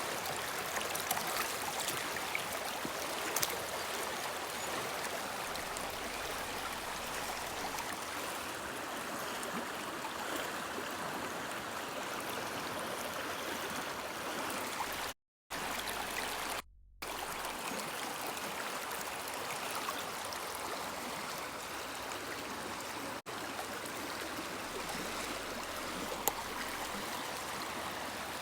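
Woodland river flowing with a steady rushing and trickling of water. It cuts out twice for a moment about halfway through.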